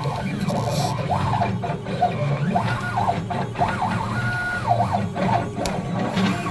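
CNC machine's stepper motors whining in short rising and falling tones as the gantry drives a drag knife through foam board, with one steady higher tone held briefly past the middle, over a constant low hum.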